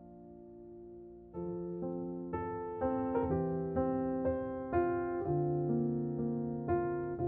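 Background music: gentle solo piano, a chord fading away, then single notes and chords struck about every half second from about a second and a half in.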